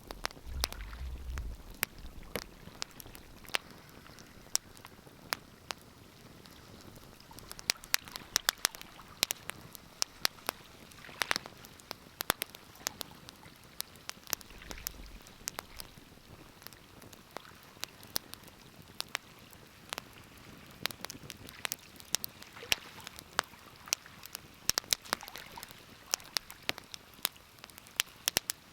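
Wood fire crackling in a fireplace: irregular sharp pops and snaps over a faint hiss, thickening into clusters about eight seconds in and again near the end. Two brief soft low thuds, near the start and about halfway.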